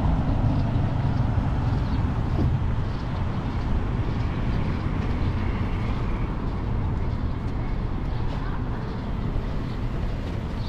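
City traffic and road noise heard from a moving bicycle, with a steady low rumble throughout; a nearby motor vehicle's engine hum stands out during the first few seconds.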